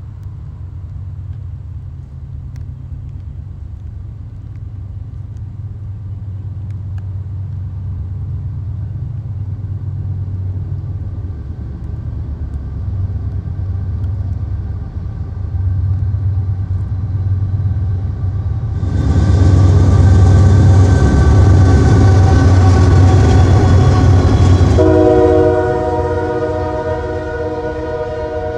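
Diesel locomotive approaching, its low engine rumble building steadily. About two-thirds of the way in, a loud rushing noise takes over for several seconds. It then gives way to the steady chord of a multi-chime air horn, held to the end.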